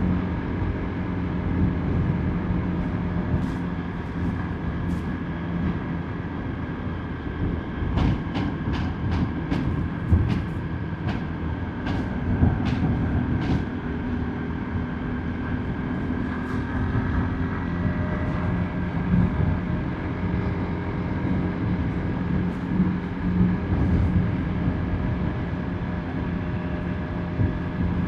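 Motorbike engine running at a steady speed, with road and wind noise. About a third of the way in comes a run of sharp clacks, several a second for about five seconds.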